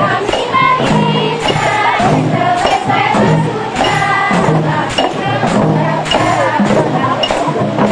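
Rebana frame drums beating a steady rhythm under group singing.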